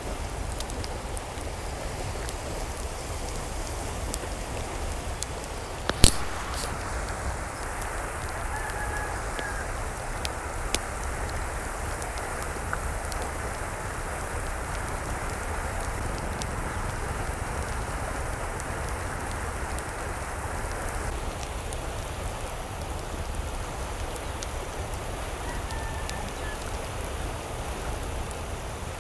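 Steady hiss of water, with one sharp click about six seconds in.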